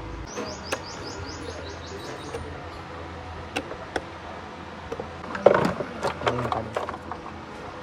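A small bird chirping about ten times in quick succession in the first two seconds. Sharp clicks and knocks are scattered through the rest, loudest in a cluster about five and a half seconds in, over a steady low hum.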